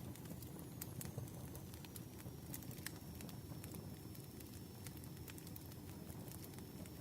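Campfire burning: wood crackling with irregular sharp pops over a steady low rumble of the flames.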